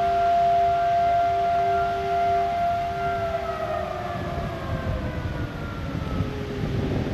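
Outdoor warning siren with a wailing tone, holding a steady pitch, then sliding slowly down in pitch from about three seconds in, with a low rumble underneath in the second half.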